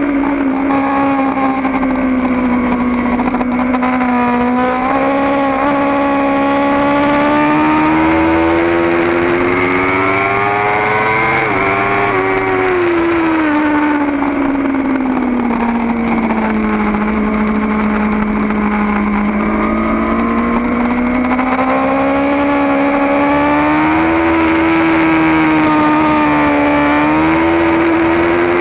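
Kawasaki ZX-10R's inline-four engine at full song, heard from on the bike. Its pitch climbs, then drops sharply at an upshift from second to third about twelve seconds in. After that it falls slowly for several seconds and then climbs again.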